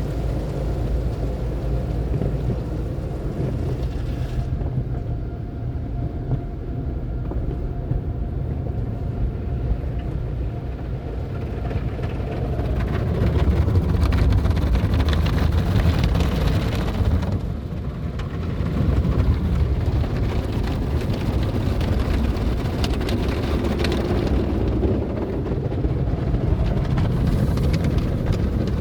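PECO automatic car wash tunnel equipment running: a steady low rumble with a wash of noise that swells and dips, louder in the middle and dipping briefly about two thirds of the way through.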